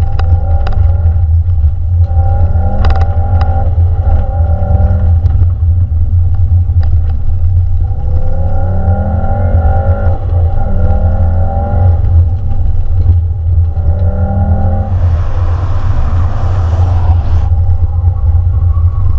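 VW Golf R's turbocharged 2.0-litre four-cylinder engine heard from inside the cabin under hard acceleration, its revs climbing and dropping back several times through the gears over a heavy low rumble. A rush of hiss lasts about two seconds near the end.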